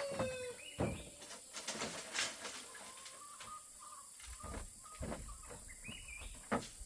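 The end of a rooster's crow, falling in pitch and stopping about half a second in. Then scattered light knocks and a few short bird chirps.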